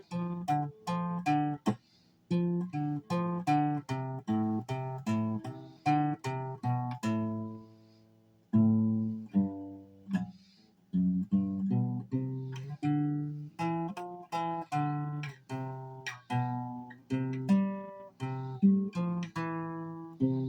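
Acoustic guitar being picked and strummed in practice: a run of notes and chords about two to three a second, with a short break about two seconds in and a chord left ringing out for a couple of seconds near the middle before the playing resumes.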